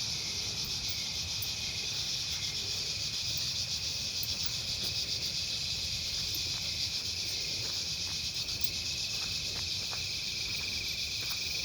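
Steady evening insect chorus: a continuous high buzz with a rapid pulsing trill a little lower in pitch, typical of crickets.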